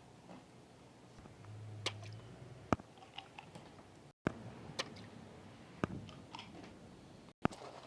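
Faint, scattered clicks and taps of plastic toys being handled, with a short low hum about two seconds in.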